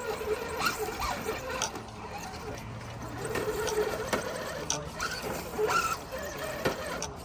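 Small electric motor and gear drive of an RC rock-crawler truck whining, its pitch rising and falling with the throttle, with scattered clicks.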